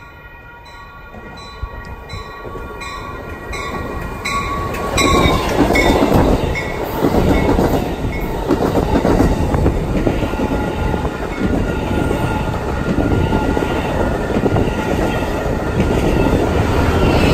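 Train passing close by. Its horn chord grows louder and drops in pitch about five seconds in as the train reaches the spot, then the loud rumble and rattle of wheels on rails fills the rest.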